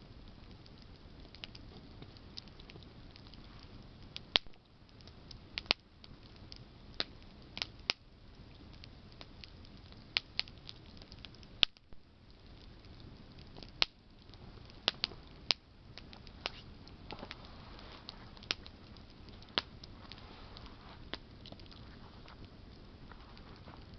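Campfire of burning branches crackling, with irregular sharp pops and snaps over a low steady hiss of flame.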